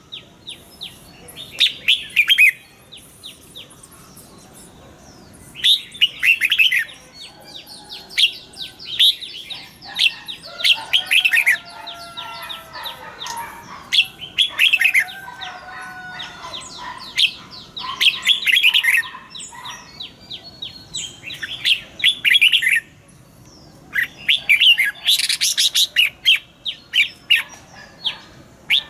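Red-whiskered bulbul singing: short bursts of quick chattering notes repeated every few seconds, with some lower sliding whistles in the middle.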